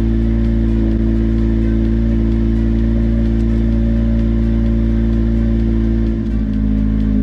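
Car engine droning steadily while driving at a constant speed, with road rumble beneath. Near the end its pitch steps slightly lower with a brief dip in loudness.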